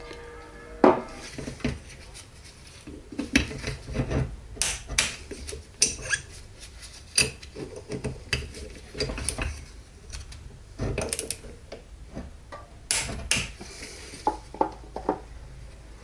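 Metal transmission parts and tools clinking and knocking against each other and the bench as they are handled, in irregular single knocks with no steady rhythm.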